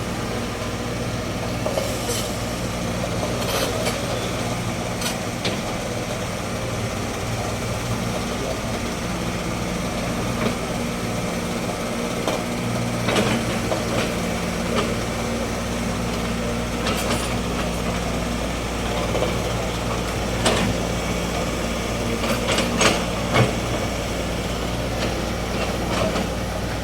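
Heavy diesel engine running steadily, from the road-repair machinery or trucks, with scattered sharp knocks and clanks, several in a cluster near the end.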